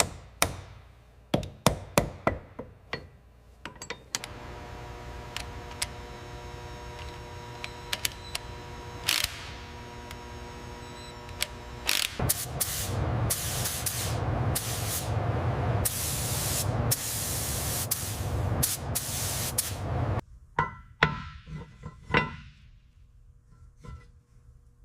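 Workshop tool work on metal parts: a run of sharp knocks and clanks, then a steady machine whine with a hum for several seconds, then more noisy grinding or rubbing with knocks, ending in lighter clanks.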